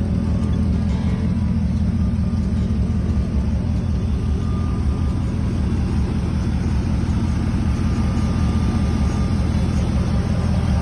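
Engine of a 1948 Willys Jeep rock crawler running steadily with a deep, even rumble.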